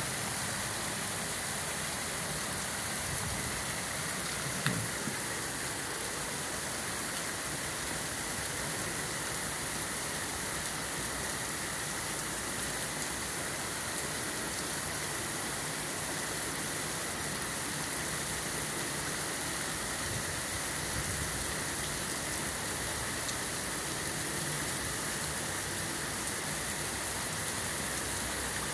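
Heavy rain falling steadily, a dense even patter, with one sharp tick a few seconds in.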